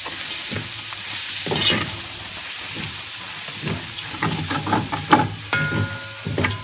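A rougail base of onion, ginger and garlic with sausage, sizzling steadily in a metal pot. Irregular scrapes and knocks of stirring come thicker in the second half.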